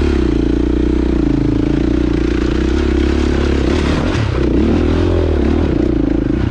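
Dirt bike engine running under load on a trail climb, its pitch dipping and rising as the throttle is worked, most of all about four to five seconds in.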